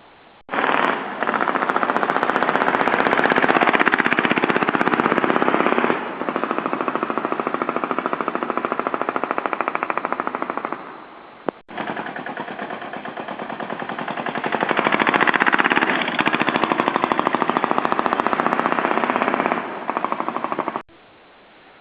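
Single-cylinder Lombardini 15LD 500 diesel engine of a BMW motorcycle converted to diesel, running with a fast, hard chugging beat. It comes in two long stretches, each growing louder for a while and then easing. The sound cuts off abruptly between the stretches.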